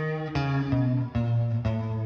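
Electric guitar played through the Big Ear Pedals Albie multi-effect on its number 4 preset, a stack of delay, reverb and modulation: single notes picked two or three a second, each ringing on into the next.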